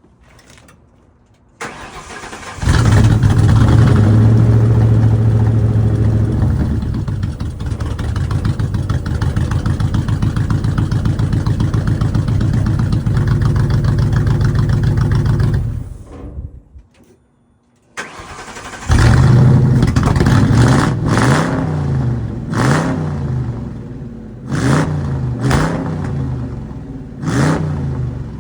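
Straight-piped Ford V8 cranked and firing up on its first start after new spark plugs and coils. It runs loud and steady, cuts out about sixteen seconds in, then restarts and is blipped about five times, the pitch rising and falling with each rev.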